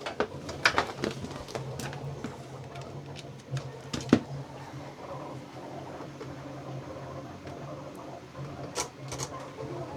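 Scattered sharp clicks and light taps, a few close together about a second in and again near the end, over a steady low hum.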